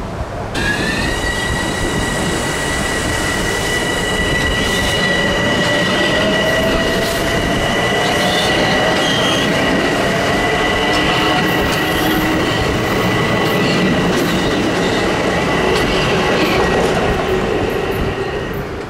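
Metro-North M7A electric train running past on curved track, its wheels squealing in steady high tones, with a lower whine rising in pitch as it gets under way. The squeal starts abruptly just after the start and stops near the end as the train pulls away.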